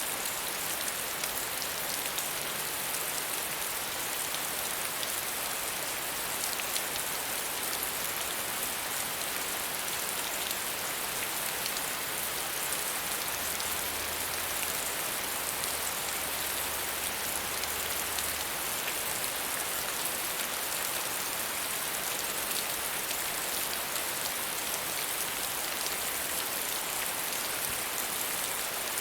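Steady, medium rainfall: an even hiss of rain on surfaces with a few separate drops ticking through it.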